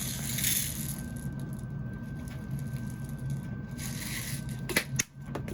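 Scent beads rattling as they are poured from their bottle, in two short spells, then a few light clicks. Under them runs the steady hum of a tumble dryer.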